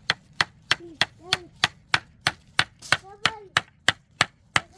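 Repeated sharp strikes in an even rhythm, about three a second and around fifteen in all, as of something being chopped or hit.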